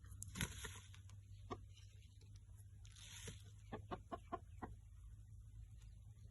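Parrot-beak aseel rooster clucking in short, sharp notes, a quick run of about six of them a little past the middle, with a couple of brief rustling noises.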